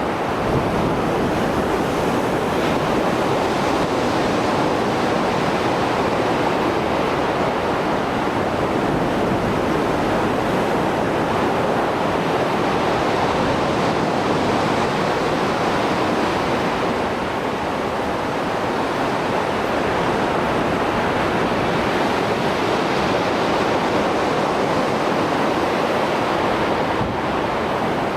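Rough Mediterranean Sea surf after a storm, waves breaking and washing ashore in a continuous loud rush, with some wind buffeting the microphone.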